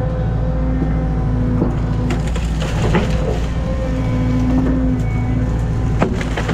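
Excavator engine running steadily under load while trees and brush crack and splinter, with several sharp snaps of breaking wood scattered through.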